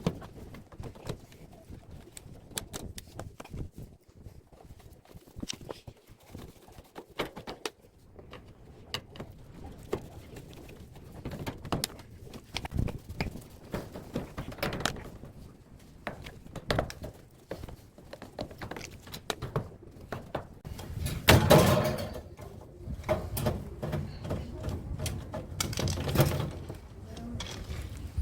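Scattered clicks, knocks and metal clatter from hand work on a scrapped air-conditioner outdoor unit being taken apart. There is a louder, longer clatter about twenty-one seconds in and another around twenty-six seconds in.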